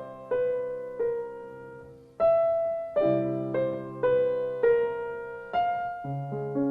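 Background piano music: a slow melody of single struck notes, each fading after it is played, over held low notes.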